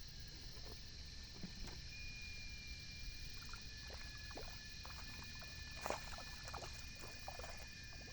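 Faint scattered splashes and knocks of water around a boat, the loudest about six seconds in, over steady high whining tones.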